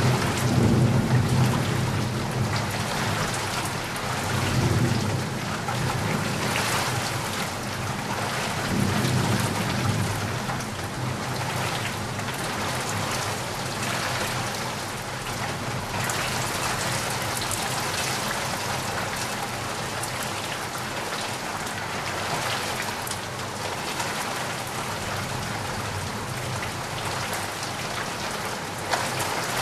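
Steady, heavy rain falling, with low rolls of thunder rumbling under it through the first third that die away, leaving only the rain.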